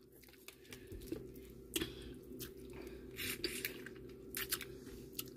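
Faint, wet chewing and mouth sounds of someone eating a seafood boil, with scattered soft clicks and squishes, over a low steady hum.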